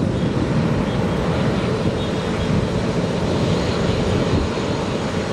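Jet aircraft engines running, a steady heavy rumble with a faint steady whine.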